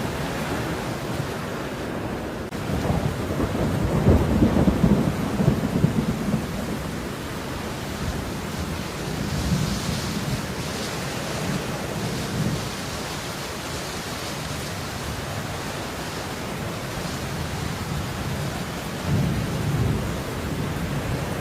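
Steady rain falling, with low rolling rumbles of thunder that swell a few seconds in and again near the end.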